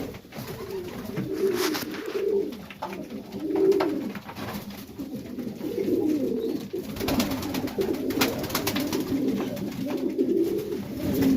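Serbian highflyer pigeons cooing inside the loft, several birds overlapping in a continuous low warble, with a few sharp clicks now and then.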